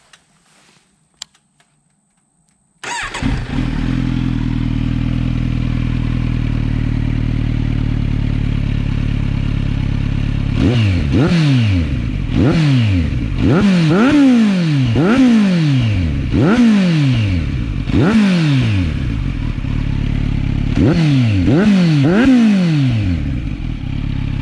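2022 Kawasaki Z900's inline-four engine through a KO Lightning slip-on exhaust. After a few faint clicks it starts suddenly about three seconds in and idles. From about ten seconds in it is revved up and dropped back about eight times, then settles back to idle.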